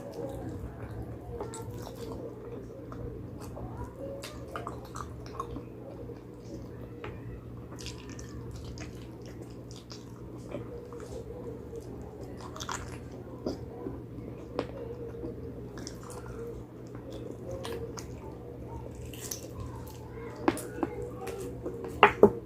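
A person eating spicy pig trotters close to the microphone: biting and chewing, with many small wet clicking mouth sounds. A few louder sharp clicks come near the end, over a steady low hum.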